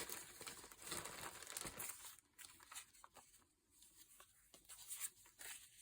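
Paper rustling and crinkling as sheets are handled and sorted through. It is louder for the first couple of seconds, then fainter, with a few light clicks.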